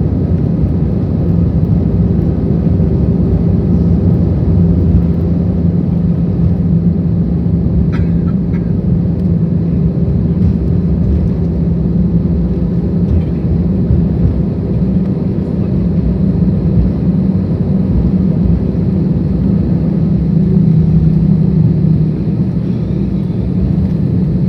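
Airbus A320-200's engines and airframe running with a steady low hum and rumble, heard inside the cabin as the aircraft taxis after landing. A couple of faint clicks come about eight seconds in.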